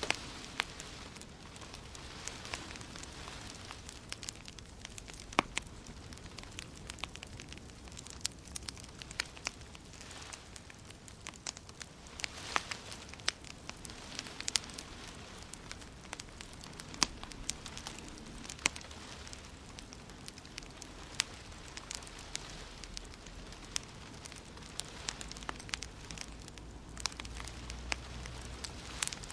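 Fire in a fireplace crackling: irregular sharp pops and snaps over a steady soft hiss.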